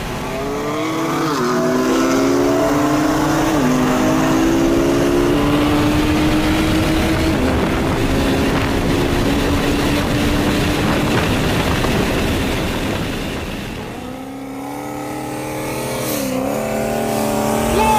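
High-powered car engine at full throttle during a highway race, heard from inside the car, its pitch dropping at quick upshifts about one and three and a half seconds in, then pulling steadily. About fourteen seconds in, another hard-accelerating engine takes over with a further shift.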